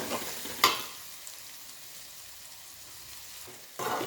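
Bird's eye chillies frying in hot oil in a pan: a steady sizzle, with a few sharp pops or stirring clatters, the loudest just after the start and another near the end. The chillies burst now and then because some of their stems were not fully removed.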